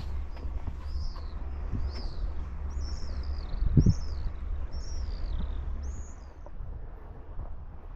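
Birds calling in a quick series of short, arched chirps that stop about six and a half seconds in, over a steady low rumble of wind or water, with one dull thump about four seconds in.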